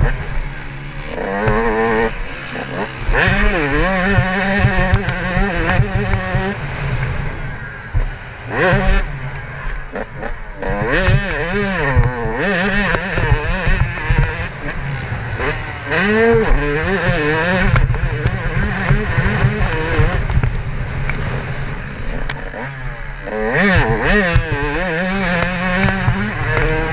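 Yamaha YZ125 two-stroke single-cylinder engine ridden hard, its pitch climbing and dropping again and again as it revs up, shifts and backs off, over a low wind rumble on the microphone.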